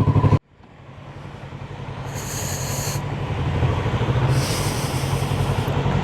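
Motorcycle engine running at a steady cruise with wind noise, heard while riding. The sound cuts out abruptly about half a second in and fades back up over the next few seconds, with two spells of high hiss along the way.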